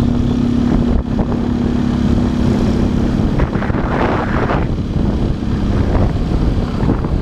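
Motorcycle engine running at a steady pitch that fades about three seconds in, as wind noise on the camera's microphone swells twice.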